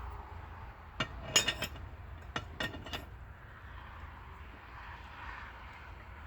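A handful of sharp metallic clinks and taps, metal tools on metal, coming in a cluster from about a second in to about three seconds in, over a steady low hum.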